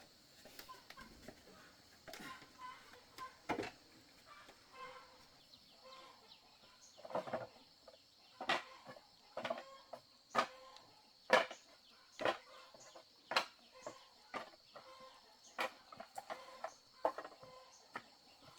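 A run of sharp knocks, roughly one a second through the middle of the stretch, over chickens clucking faintly and a steady high hiss.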